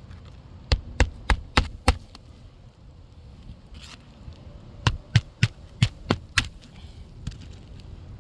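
Two quick runs of about five sharp strikes each, roughly three a second, the second run a few seconds after the first: roofing nails being driven to fasten a replacement asphalt shingle.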